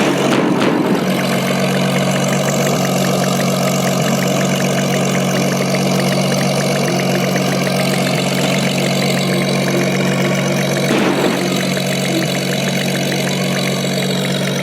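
Aircraft engines running steadily, a constant hum with a couple of brief swells.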